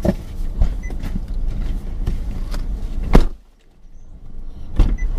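Low rumble of a vehicle with several knocks and thumps. A loud thump comes about three seconds in, after which the rumble briefly drops away before picking up again.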